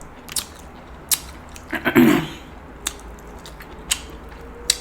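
Close-up eating sounds of someone chewing king crab meat: a scatter of sharp, separate wet clicks and smacks, with one louder, longer mouth sound about two seconds in.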